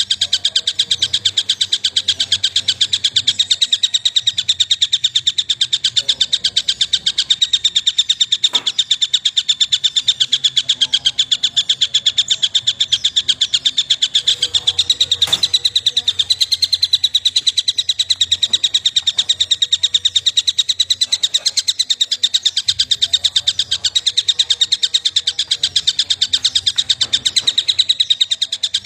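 A small bird's rapid chirping, repeated many times a second in an unbroken, steady run: a looped tutor-song recording played for white-rumped shamas to copy.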